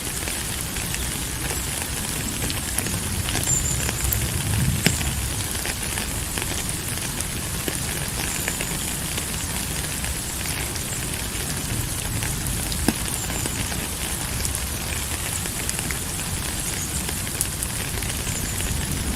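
Steady rain falling: an even hiss with many small, sharp clicks of individual drops throughout.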